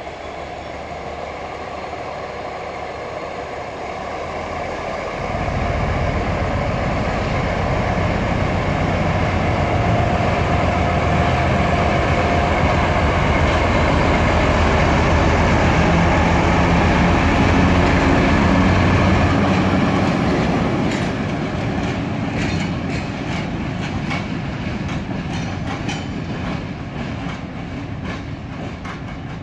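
Diesel locomotive hauling loaded hopper wagons past at close range. Its engine grows suddenly louder about five seconds in as it draws level, stays loud until about twenty seconds, then fades, leaving the rhythmic clicking of the wagon wheels over the rail joints.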